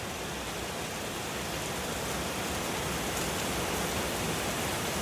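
Heavy rain falling and pattering on surfaces, a steady hiss.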